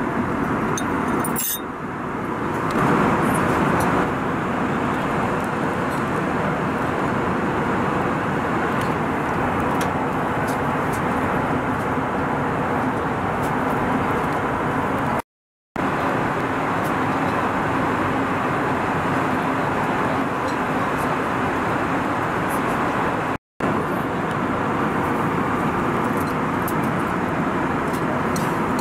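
Steady roar inside the cabin of an Airbus A321 airliner in flight, from its engines and the airflow, broken twice by short silent gaps.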